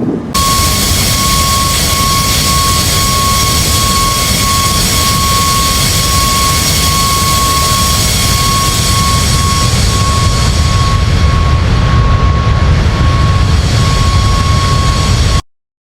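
Jet aircraft engines running at high power: a steady roar with a steady high whine over it, cutting off suddenly near the end.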